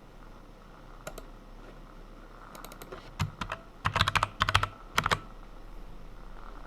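Typing on a computer keyboard: a couple of keystrokes about a second in, then a quick run of key presses with a few sharper strokes, ending a little after five seconds.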